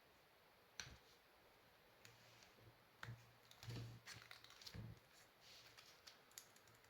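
Near silence broken by scattered faint clicks and light handling noises, more frequent in the middle few seconds, as small parts are handled at a workbench.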